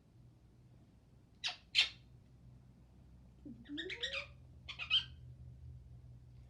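A pet parrot gives about four short, harsh squawks in separate bursts. It is being teased into nipping in play.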